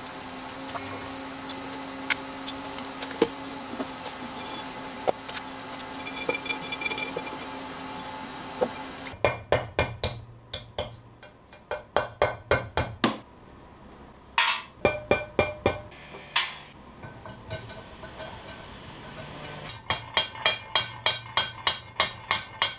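Series of hammer blows on metal, sharp evenly spaced strikes about three a second in several bursts with short pauses, as a pressed-in leadscrew nut and its pins in a cast-iron milling-machine carriage are knocked at. A steady hum with a held tone comes before the first blows, for about the first nine seconds.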